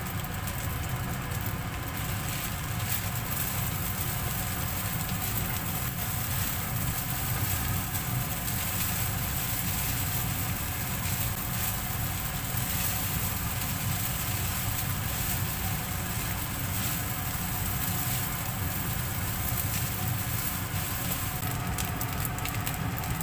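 Fried rice sizzling in a non-stick wok as it is stirred and scraped with a plastic spatula, with many small crackles over a steady low hum.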